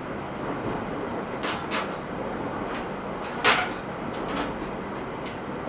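Inside the passenger car of an E127 series electric train: the steady rumble of the running train, with a few short sharp noises, the loudest about three and a half seconds in.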